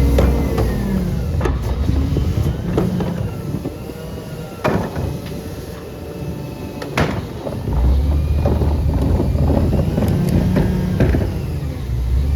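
CNG Peterbilt garbage truck running, its engine easing off about a second in and speeding up again strongly about eight seconds in, with several sharp metallic knocks and a faint wavering whine.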